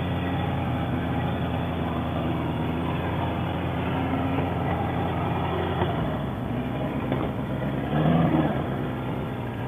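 Motorcycle engine running at a steady speed while riding, with wind and road noise; about six seconds in the steady engine note drops away as the bike slows.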